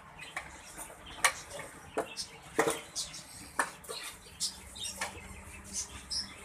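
Caged birds chirping in short high calls, with scattered sharp clicks and knocks among them.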